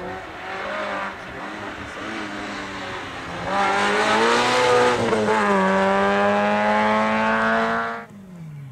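Rally car at full throttle approaching and passing: the engine gets much louder about three and a half seconds in, holds a high note that climbs slowly, then cuts off with a sharp drop in pitch as the car goes by near the end.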